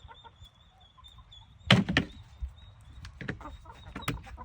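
Knocks and clatter from handling the chickens' water and feed buckets as they are checked: two loud knocks close together about two seconds in, then a run of lighter clicks and taps.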